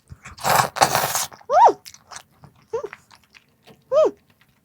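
Close-miked eating: a noisy bite or slurp about half a second in, then three short, high-pitched sounds that each fall in pitch.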